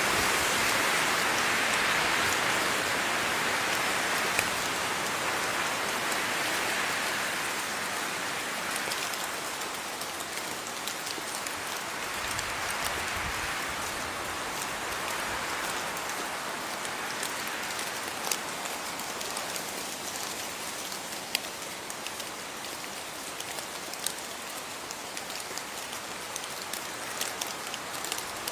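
Steady rainfall with individual drops ticking sharply here and there. It eases slightly over the first ten seconds or so, then holds steady.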